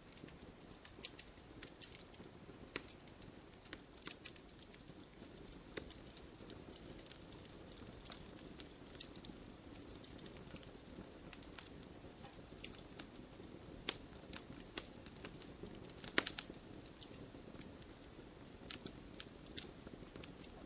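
Wood fire burning in a fireplace: a soft steady low rush of flames with irregular sharp crackles and pops, a cluster of louder pops about three quarters of the way through.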